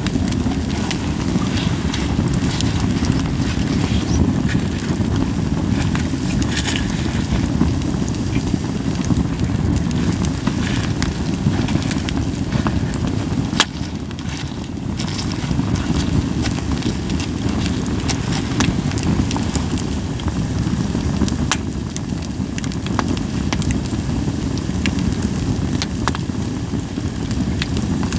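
Japanese white pine burning in a campfire, with scattered sharp crackles and pops over a steady low rumble.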